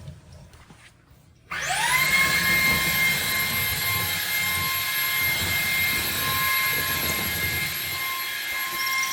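Ryobi cordless stick vacuum switched on about a second and a half in, its motor whining quickly up to speed and then running steadily with a high-pitched whine.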